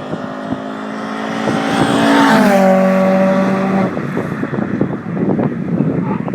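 Modded MINI Cooper R50's 1.6-litre four-cylinder engine passing by at speed: the engine note climbs to its loudest a little over two seconds in, then drops in pitch as the car goes past and fades out about four seconds in.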